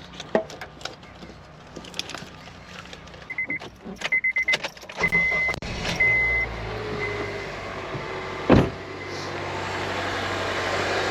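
A car's warning chime beeping several times while the 2008 Honda CR-V is started. Its engine then settles into a steady idle, running on its newly replaced starter. A door shuts with a loud thud late on, and the car's noise swells toward the end.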